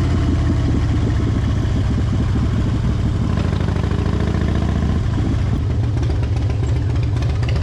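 Harley-Davidson Fat Bob's V-twin engine running steadily at low revs while riding through town, with small shifts in pitch about three and five seconds in.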